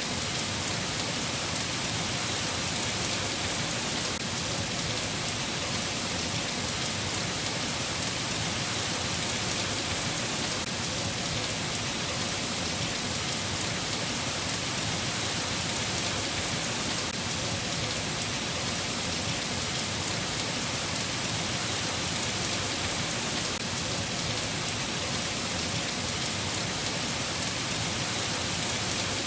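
Steady rain, an even, unbroken hiss of falling drops with no thunder or other events.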